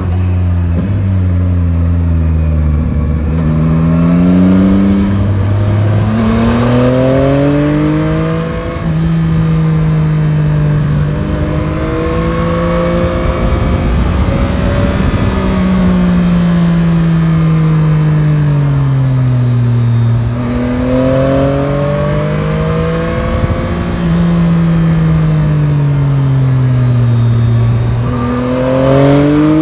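Yamaha Tracer 9 GT's CP3 three-cylinder engine heard from the bike while riding: it revs up through a few quick upshifts in the first several seconds, then the revs fall and climb again twice in long, smooth swells as the rider rolls off and back on the throttle, with wind and road rush underneath.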